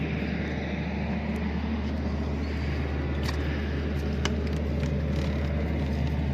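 Steady low mechanical hum running without a break, with a few faint ticks around the middle.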